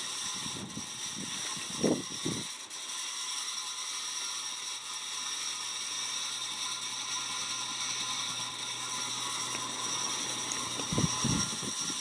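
1992 Casablanca Delta II ceiling fan running steadily on high, with very loud worn bearings and a low motor hum that comes in after a couple of seconds. High speed is no faster than medium, which the owner takes for a bad capacitor. A few soft low thumps come near the start and again near the end.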